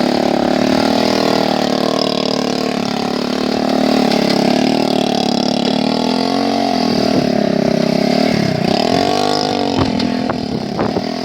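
Motorcycle engine running steadily, its pitch dipping and rising again a few times in the second half as the throttle is eased off and reopened.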